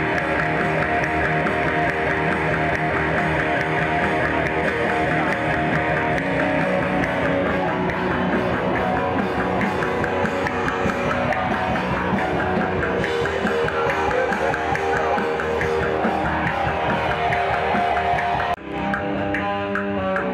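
Heavy metal music with distorted electric guitars and a drum kit playing continuously. About eighteen and a half seconds in, the dense full-band sound cuts out abruptly and a sparser passage with clearer held guitar notes follows.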